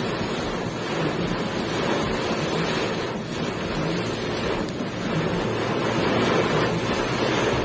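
Heavy downpour with strong wind: a steady rushing noise with wind buffeting the microphone.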